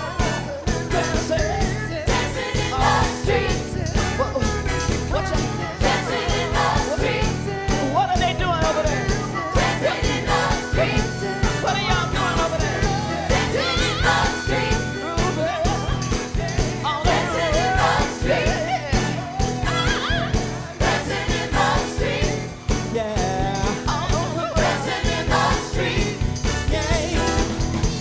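Live soul band and ensemble of singers performing a Motown song, with a steady drum beat under the lead and backing vocals.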